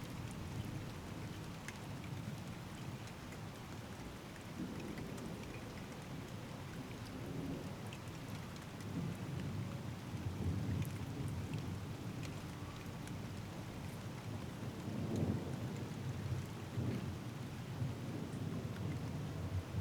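Steady rain falling, with scattered individual drops ticking close by, under low rolling thunder that swells about halfway through and again a few seconds later.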